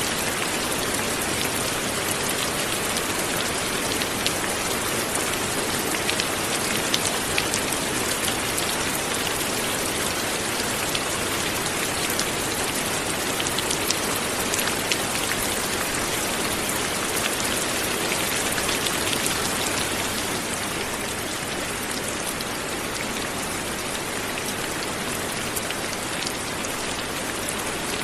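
Light rain falling steadily, a dense even patter of many small drops with scattered sharper drop ticks. It eases slightly about two-thirds of the way through.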